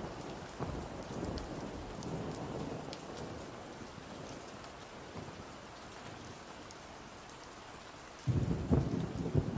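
Steady rain falling. A low rumble of thunder dies away over the first few seconds, and a louder rumble of thunder breaks in suddenly near the end.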